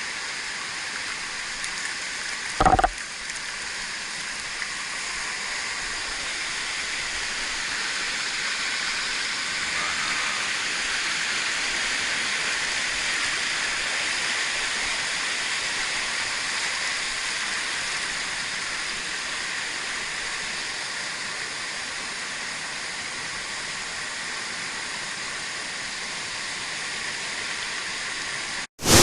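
Mountain stream rushing steadily over rocks, with one brief thump about three seconds in.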